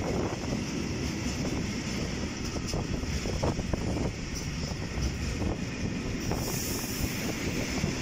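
Freight train of tank wagons rolling past at close range: steady wheel-on-rail rumble with a few short knocks, and wind buffeting the microphone.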